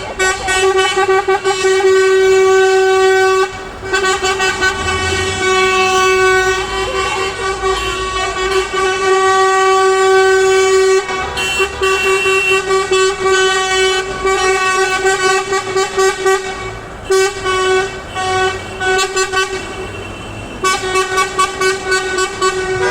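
Truck air horns sounding almost without pause: long blasts held on one steady pitch, with stretches of quick repeated toots near the start and end, over a low engine rumble.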